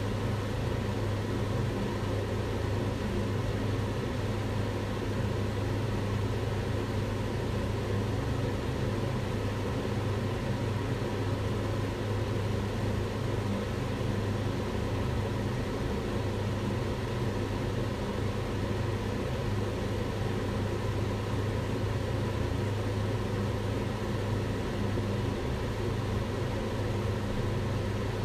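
Kitchen range hood fan running steadily: an even rush of air over a constant low hum.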